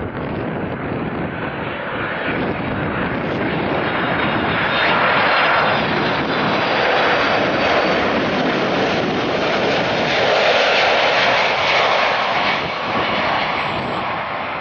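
Jet airliner's engines as it flies past: a broad roar that builds to a peak mid-way and starts to fade near the end.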